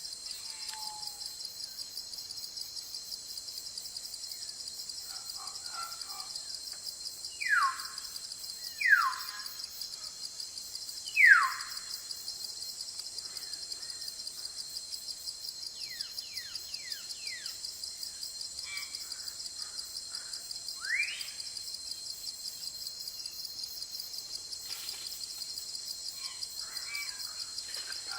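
Forest ambience: a steady, high-pitched, pulsing insect chorus with bird calls over it. Three loud falling whistles come a couple of seconds apart before the middle, and one rising whistle comes later, with scattered fainter chirps.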